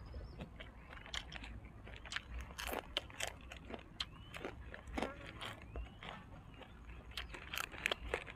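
A person chewing crispy fried dried squid close to the microphone: a run of sharp, irregular crunches and crackles with each bite.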